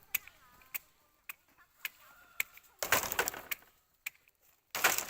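Bamboo being chopped and split: sharp knocks about twice a second, then two louder crackling, splintering bursts. A bird calls faintly in the first second.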